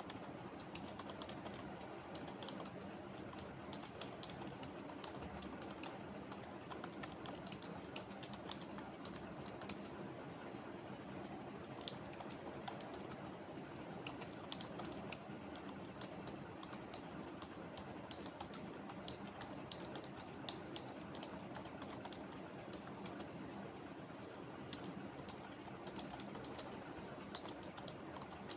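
Typing on a computer keyboard: irregular runs of quick key clicks with short pauses, over a steady low room hum.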